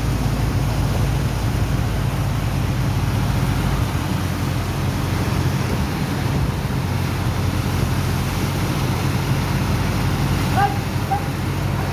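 Sand dredger's engine and pump running steadily, a loud drone with a deep hum under a rushing noise; the deepest rumble drops away about four seconds in. A few short high calls sound near the end.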